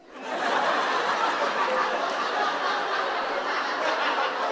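Audience laughing together, swelling up within the first half second and holding steady.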